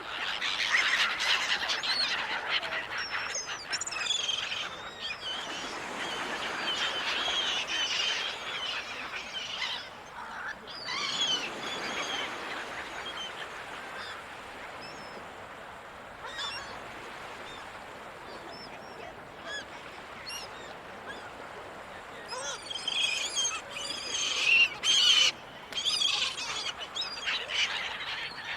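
Gulls calling over ocean surf: many overlapping squawks and cries, with the busiest, loudest cluster near the end. Under them, the wash of waves swells and fades.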